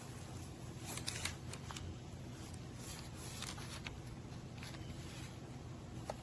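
Faint handling noises: a few light clicks and rustles scattered over a low steady hum.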